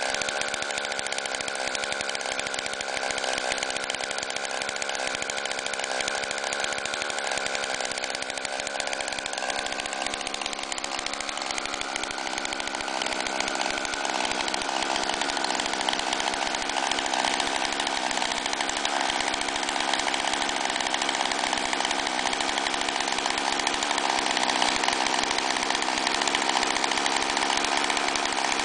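Straight-piped small engine of a go-kart running steadily, its pitch stepping up about halfway through and growing a little louder afterwards.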